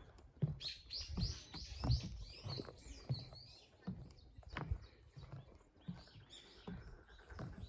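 A rapid run of high, descending chirping calls from a small animal, dense for about two seconds near the start and then sparser, over low thumps that repeat about once or twice a second.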